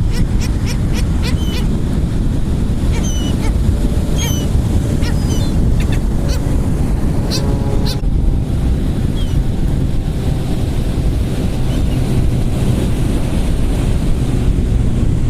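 Gulls calling in short, squawking cries, thick in the first half and sparser after, over a steady rumble of wind on the microphone and surf.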